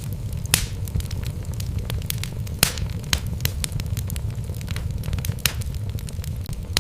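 Wood fire in a fireplace: logs burning with a steady low rumble and irregular crackles, with a few sharper pops.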